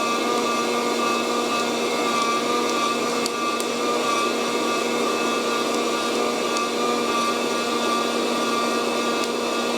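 Fresh Roast SR 800 hot-air coffee roaster running: its fan blows steadily through the bed of beans, a constant whir with a steady hum. A few faint, scattered pops come through it as the beans go through first crack.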